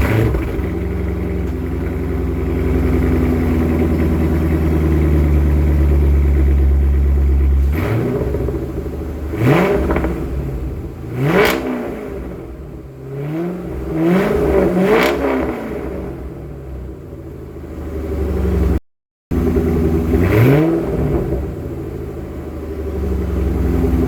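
C5 Corvette V8 through a Borla ATAK exhaust, idling steadily just after starting, then revved in quick blips. There are two single revs, then a run of several revs in a row, a brief cut-out, and one more rev near the end.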